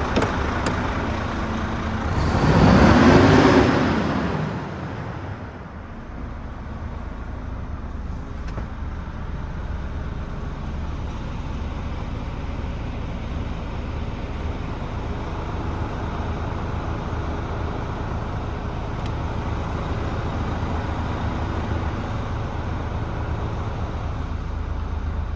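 Renault T460's 11-litre turbo diesel engine idling, revved once about two seconds in, rising and falling back over a couple of seconds, then settling to a steady low idle.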